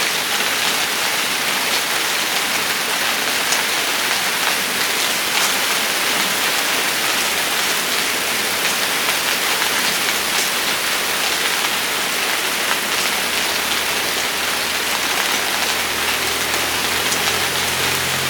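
Steady rain falling, an even hiss with scattered drop ticks. A low steady hum comes in under the rain over the last few seconds.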